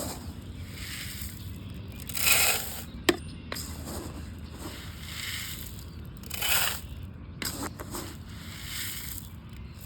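Scraping and crunching handling noises in several separate swishes, with one sharp click about three seconds in.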